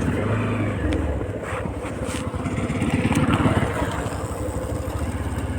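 A road vehicle's engine running steadily, a low pulsing drone with no gaps.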